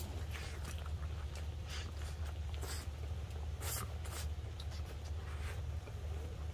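A man eating a mouthful of steaming-hot fish cake: a few scattered short mouth noises as he chews, over a steady low hum.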